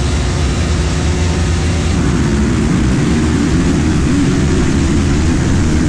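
Dirt bike engine running loud and continuously, its pitch wavering up and down with the throttle from about two seconds in.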